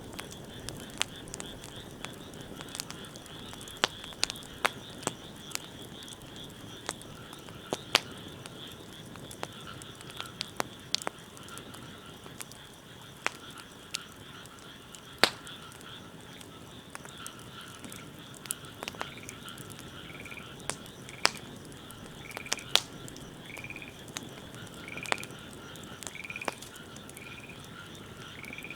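Wood fire crackling with irregular sharp pops, over a steady background of frogs calling. From about two-thirds of the way in, a short chirping call repeats roughly once a second.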